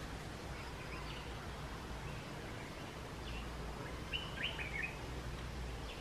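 A few short, high bird chirps, with a quick cluster of them about four seconds in, over a steady low background rumble.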